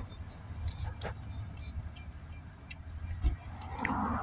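A man eating a bite of beef burrito: chewing and mouth noises with a few sharp clicks and knocks from the hand-held phone, over a low steady rumble.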